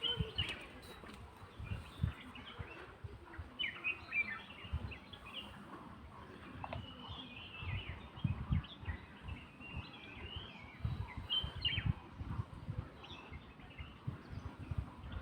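Wild birds chirping and calling in short, scattered phrases, over irregular low thumps and rumbles.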